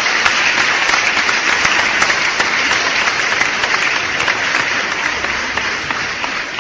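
Applause: many hands clapping densely, easing off slightly near the end.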